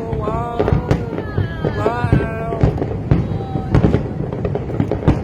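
Fireworks going off in many sharp, irregular bangs, several a second, throughout.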